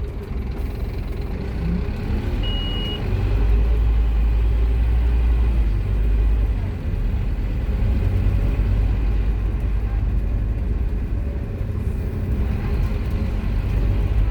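Scania K230UB Omnilink bus's five-cylinder diesel engine thrashing under load, a deep rumble that swells about three seconds in and dips briefly around seven seconds. A short high beep sounds about two and a half seconds in.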